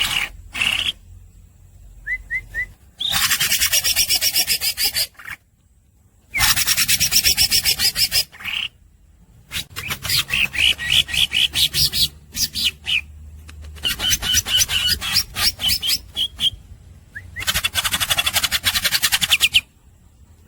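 Cucak ijo (green leafbird) singing: bursts of very fast, raspy, rattling notes, each lasting two to three seconds, with short pauses between them and a few brief chirps.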